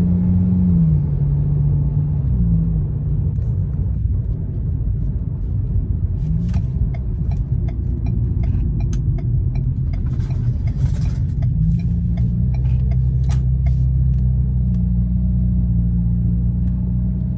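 2022 Ford Maverick with a Magnaflow aftermarket exhaust while driving: a slight low exhaust drone over wind and road rumble. The drone's pitch drops about a second in and rises again near the end as engine speed changes. A run of quick, regular ticks sounds through the middle for several seconds.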